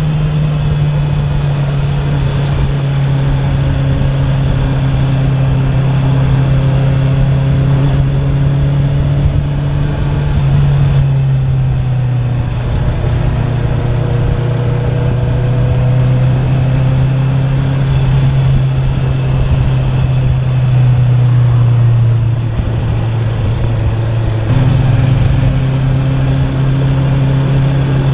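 Honda CB650R's inline-four engine through an Akrapovic exhaust, running at a fairly steady cruising speed under way. Its note drifts slowly, with small steps in engine speed about 10 seconds in and again near 24 seconds.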